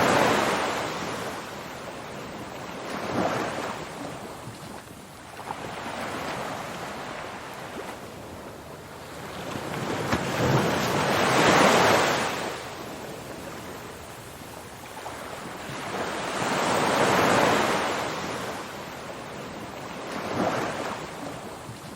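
Ocean surf: waves breaking and washing in, the rushing noise swelling and fading every few seconds, with the biggest surges about halfway through and again a few seconds later.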